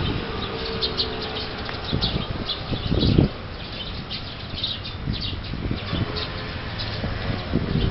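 Small birds chirping repeatedly in short, high calls over a steady background hum. About three seconds in there is a louder low rumble.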